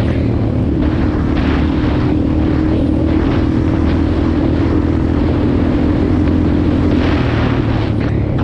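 Motorcycle engine running at a steady pitch while riding, with patches of rushing noise swelling and fading over it.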